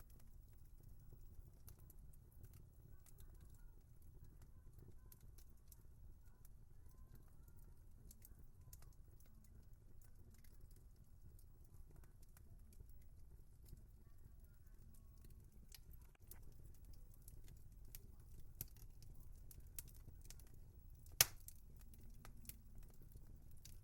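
Wood fire crackling faintly: scattered small pops and snaps over a low steady rumble, with one sharper pop near the end.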